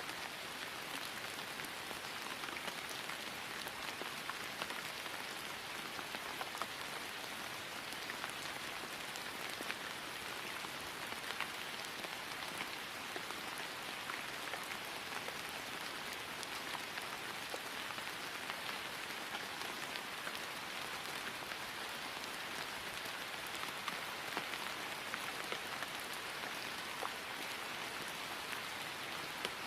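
Steady rain falling on grass, an even hiss with many fine drop ticks.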